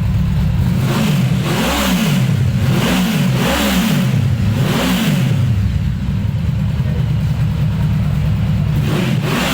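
Yamaha VMAX 1700's V4 engine idling, blipped four times in quick succession, each rev rising and falling back, then settling to a steady idle.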